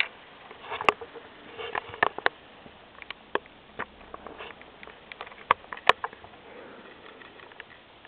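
Plastic Lego parts of a two-cylinder model crank engine clicking and clacking at uneven intervals, the loudest clacks about a second in and near six seconds.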